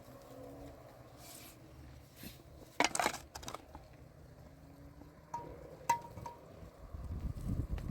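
Several sharp clinks and knocks of hard objects striking, a cluster about three seconds in and two more later, one with a short ringing tone; a low rumble near the end.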